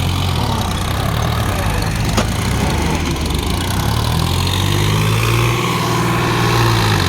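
Diesel tractor engine running steadily, with a single sharp click about two seconds in.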